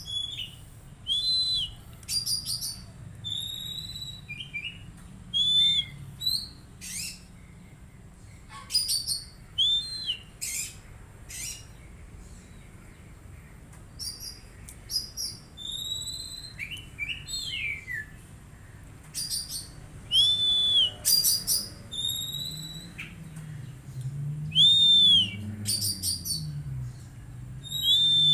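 Oriental magpie-robin (kacer) song: a varied run of short, clear whistled phrases, arched notes, quick high trills and downslurred notes, with brief gaps between them.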